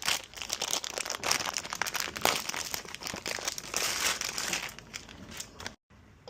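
Crinkling and rustling with many small irregular clicks, as of material being handled. It cuts off suddenly near the end.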